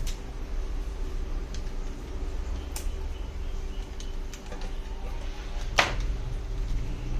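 A few short, sharp clicks over a steady low hum and rumble, the loudest click about six seconds in.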